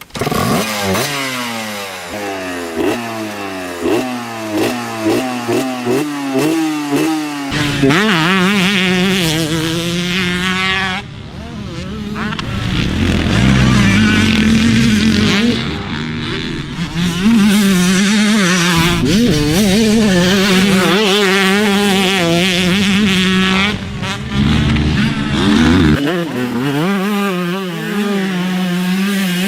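Two-stroke motocross bike engines ridden hard, the pitch climbing and dropping again and again as they rev up through the gears and the throttle is chopped and reopened. The sound changes abruptly a few times, as from one bike to another.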